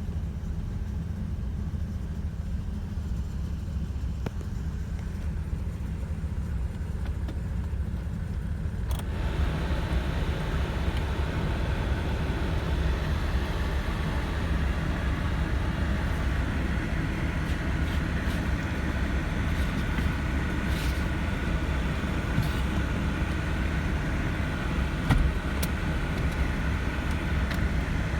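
1986 Jeep Cherokee's V6 engine running with a steady low drone. About nine seconds in, a click is followed by louder, fuller noise spreading across the range, which then stays steady with a few scattered clicks.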